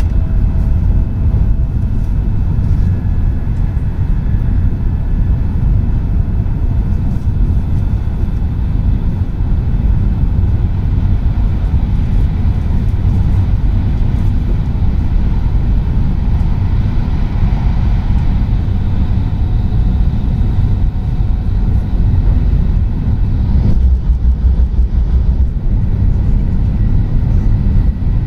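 Steady low rumble of a Tohoku Shinkansen train at speed, heard from inside the passenger cabin: wheels on rail and air rushing past. Its tone shifts a few seconds before the end, the hiss dropping and the low rumble growing.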